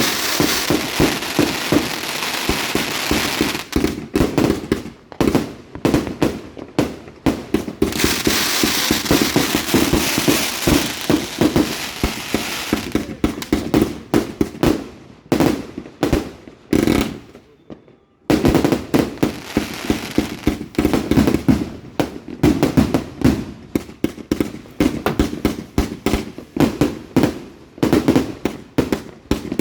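200-shot consumer firework cake firing: rapid shots of tubes launching and shells bursting, with stretches where they blur into a dense crackle. A brief lull comes about 18 seconds in, then the rapid firing picks up again.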